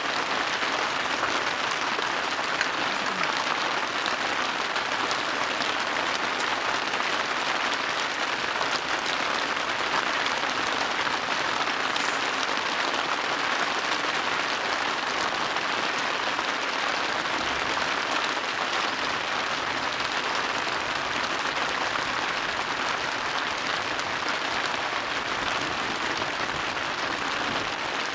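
Rain falling steadily, an even dense patter that holds the same level throughout.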